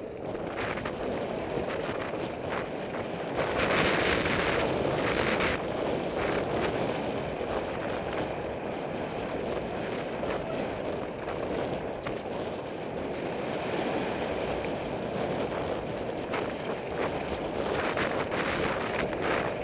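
Mountain bike riding fast down a dirt jump trail: wind rushing over the microphone, tyres rolling on dirt, and the bike rattling and knocking over bumps. It gets louder about four seconds in.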